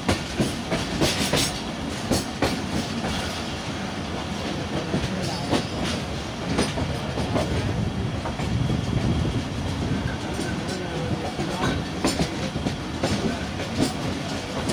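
Millat Express passenger coach running through the station, heard from an open door of the coach: a steady rumble and rush of air with irregular clicks and clatters as the wheels cross rail joints and points.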